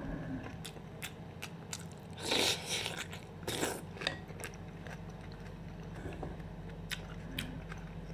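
Close-miked mouth sounds of chewing a mouthful of raw tomato and onion salad: wet smacking and crunching with scattered clicks, louder crunches about two seconds in and again around three and a half seconds.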